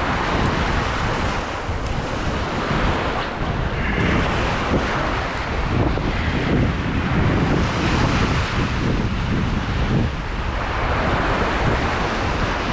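Sea waves washing over rocks, a steady surf with wind buffeting the microphone.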